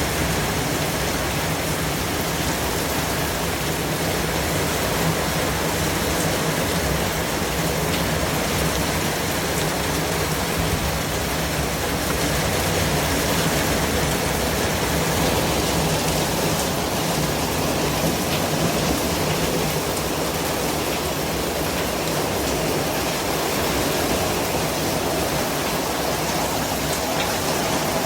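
A steady noise track: an even, unbroken hiss at every pitch, low to high, sounding much like steady rainfall, with a few faint ticks through it.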